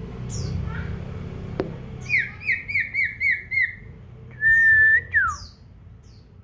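Common iora singing: a run of about six quick down-slurred whistled notes, then one long steady whistle that ends in a falling note.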